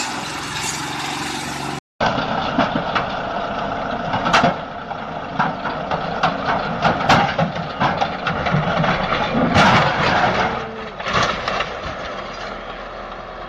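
Heavy vehicle running, with a series of sharp knocks and clanks, the loudest about four, seven and ten seconds in. The sound breaks off for a moment about two seconds in.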